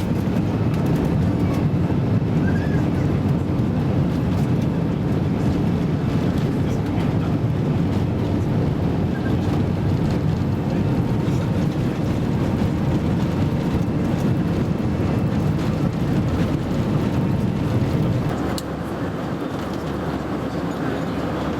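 Steady rumble of an Airbus A320's engines and airflow, heard from inside the passenger cabin. It drops a little in level shortly before the end.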